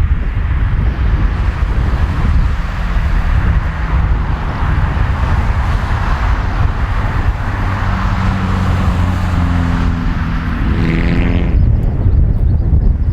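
Boeing 747-400 freighter's four jet engines rumbling as it climbs away after takeoff, with wind buffeting the microphone. A few steady pitched hums join in about eight seconds in, and the hiss thins out near the end.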